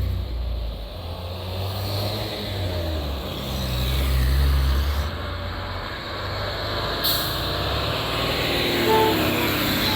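Tractor engines running, their low engine notes shifting and the level rising and falling as machines move past. A sharp click about seven seconds in and a brief tone near the end.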